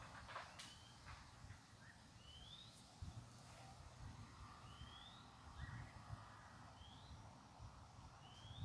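A bird repeating a short, faint, rising whistled call five times, every two seconds or so, over a low rumble.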